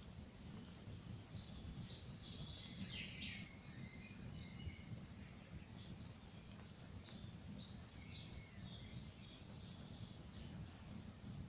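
Songbirds singing in two spells of quick high chirping phrases, starting about a second in and again about six seconds in, over a steady low rumble.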